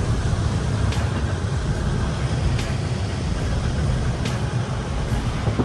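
Heavy motor vehicle running, a steady low engine and road rumble.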